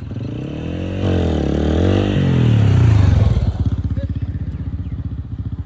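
Motorcycle engine revving: it rises and falls in pitch several times, is loudest about three seconds in, then drops back to a steady, low, evenly pulsing idle.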